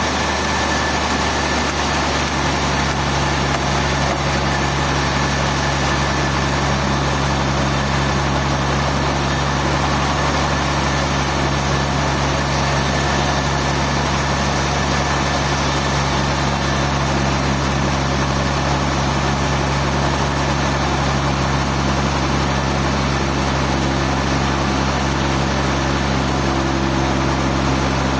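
Sawmill machinery running steadily: a constant engine hum with a few low held tones, and a slightly higher tone joining near the end.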